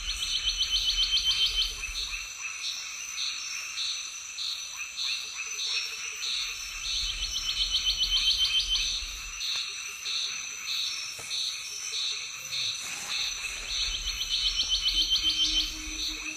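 A steady outdoor chorus of small calling animals: a high chirping pulse over a constant high whine, breaking into a fast, louder trill three times, about every seven seconds.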